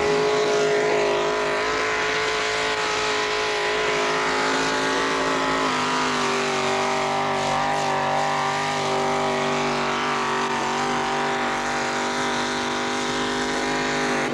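Tractor-pull engine running hard at high, steady revs, its note stepping slightly lower about six seconds in.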